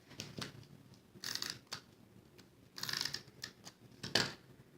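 Stampin' Up Snail adhesive tape runner drawn across cardstock in several short rasping strokes.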